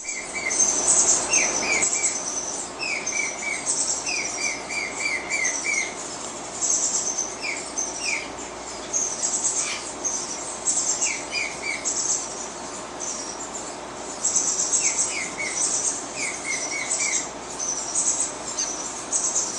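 Birds chirping: short runs of three to five quick, falling notes repeated every second or two, with thinner, higher-pitched chirps over them.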